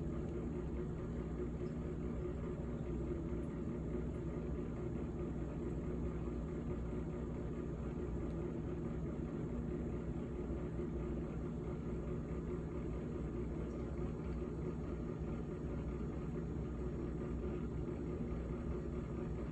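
GE GTH18XCTZRBB refrigerator running: a steady hum made of several held low tones over a faint rumble, unchanging throughout.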